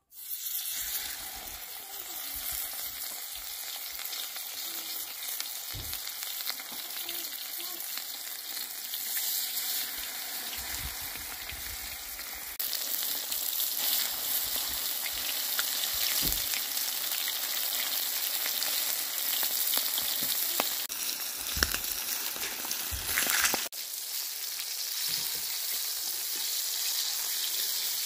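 Carp sizzling steadily in hot fat as it cooks, louder about halfway through, with a few soft knocks.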